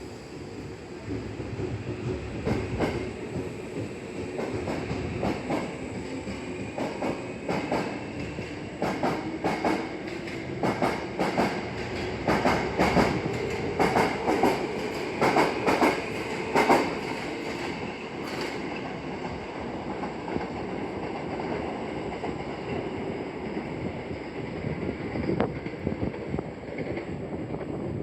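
Hankyu electric train running slowly past, its wheels clacking in quick groups over rail joints and points, with a faint motor whine. The clacks stop about two-thirds of the way through and the train's running noise carries on steadily.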